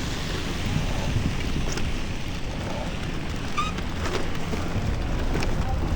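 Wind buffeting the action camera's built-in microphone, heard as a steady low rumble over street noise while cycling through a snowstorm. A brief faint squeak comes about three and a half seconds in.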